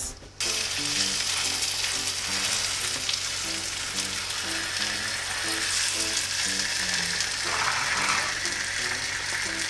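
Flour-coated chicken breast sizzling steadily as it sears skin-side down in foaming salted butter in a frying pan, starting about half a second in. Soft background music plays underneath.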